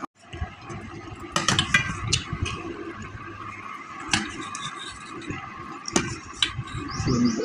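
Scattered light clicks and knocks, a handful over several seconds, of a plate and food being handled during a meal of rice and curry.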